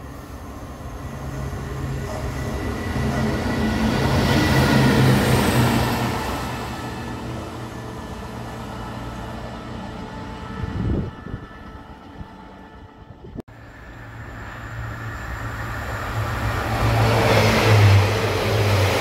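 Diesel-hauled train approaching and passing: a low engine drone with the rumble of wheels on the rails, swelling and easing, then building again to its loudest near the end.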